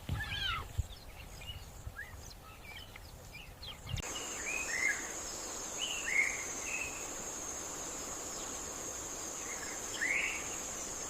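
Natural ambience: scattered bird chirps at first. About four seconds in, the sound changes abruptly to a steady high-pitched insect drone, typical of crickets, with occasional bird chirps over it.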